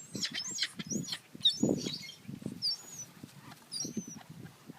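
Gulls squabbling: several short, high squealing calls over repeated low bursts of wing-flapping and scuffling.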